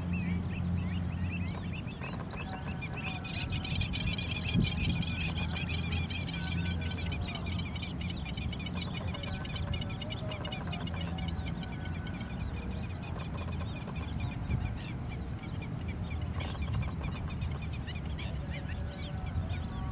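A flock of many birds calling at once, a dense chatter of short overlapping calls, over a steady low hum.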